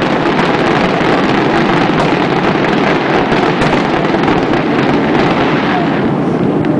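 Dense barrage of aerial fireworks bursting in quick succession, the reports merging into a continuous loud din with crackling.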